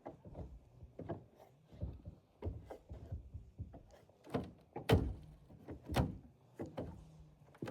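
A series of irregular knocks and thuds, about a dozen, with the two loudest about five and six seconds in.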